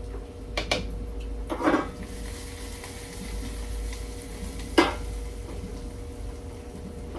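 A utensil stirring and scraping in a pan to coat food in melted butter, with a few sharp knocks against the pan, the loudest just before five seconds in, over a faint sizzle.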